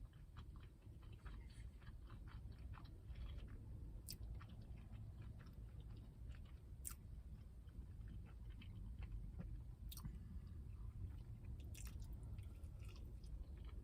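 Close-miked chewing of a crispy breaded fried chicken sandwich: soft crunching and wet mouth clicks, with a few sharper smacks at intervals.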